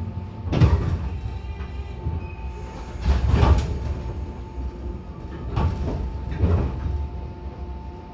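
Cabin of a JR 415 series electric train car running slowly: a steady electrical hum, broken by four heavy clunks and rattles from the running gear about half a second, three, five and a half and six and a half seconds in, then quieter toward the end.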